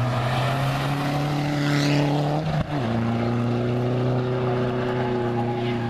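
Rally car engine running hard at steady high revs, with a gear change about two and a half seconds in: a brief break, then the note settles lower and holds.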